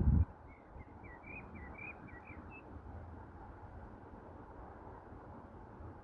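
A small songbird singing a quick phrase of short, high chirping notes about a second in, over a faint low background hum. A loud low rumble cuts off abruptly at the very start.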